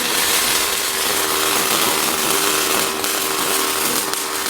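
Robotic arc-welding torch striking and burning a continuous weld: a steady, loud crackling hiss with a faint steady hum underneath.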